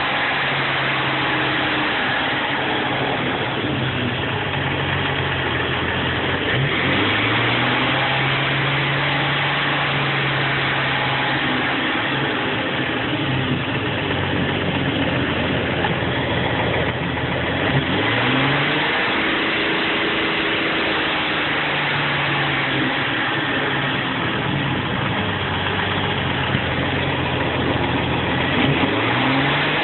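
Engine idling, its speed rising and holding a few times (about 7, 18 and 28 seconds in) before settling back to idle.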